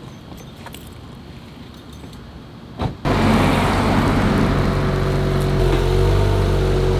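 Dodge Challenger's engine starting up about three seconds in, with a short burst before it catches, then running loudly and steadily. Before that, a few faint clicks over quiet surroundings.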